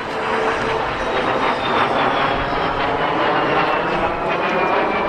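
De Havilland Vampire FB.52's Goblin turbojet flying past: loud, steady jet noise with a high whine that falls slowly in pitch.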